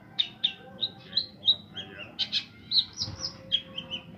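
Long-tailed shrike (cendet) singing a fast, varied string of short chirps and whistled notes, about three or four a second, mimicking other birds' calls.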